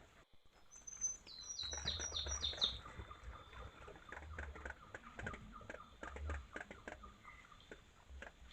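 A bird calls a quick series of about seven short, high notes, each falling and stepping lower in pitch. It is followed by several seconds of crackling and rustling with low thumps.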